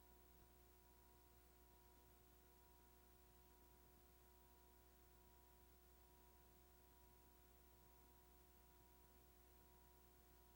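Near silence: a faint steady hiss and hum with a few thin electrical tones, no recorded sound.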